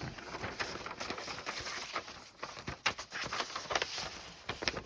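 Paper and light card being handled: rustling and sliding with scattered soft taps and clicks as paper-doll books and cards are moved about.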